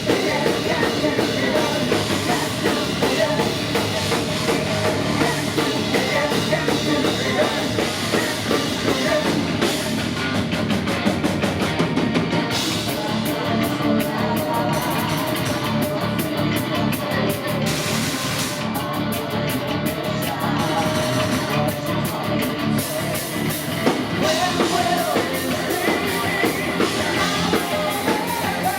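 Heavy metal band playing live at full volume, with drum kit and distorted guitars.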